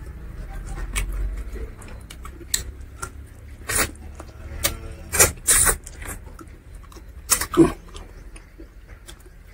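Close-miked mouth sounds of eating rice and curry by hand: wet chewing with sharp lip smacks and clicks, several louder ones from about halfway through.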